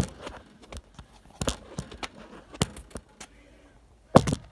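Handling noise: a string of irregular sharp knocks and clicks, the loudest pair near the end.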